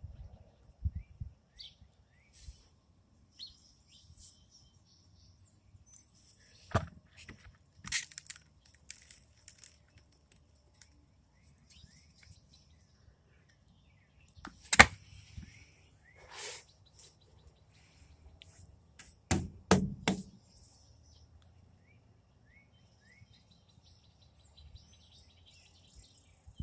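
Small birds chirping now and then, with a few sharp knocks scattered through, the loudest about halfway.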